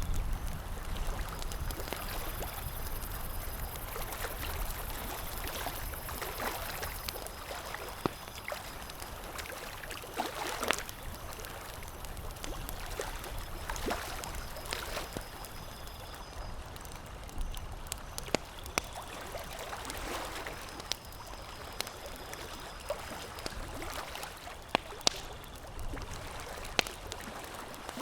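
Campfire crackling: a soft steady hiss with irregular sharp pops and snaps scattered through it, a few standing out louder than the rest.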